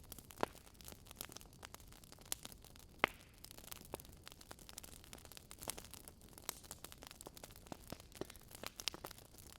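Campfire burning, wood crackling softly in a steady scatter of small irregular snaps, with a couple of sharper pops about half a second and three seconds in.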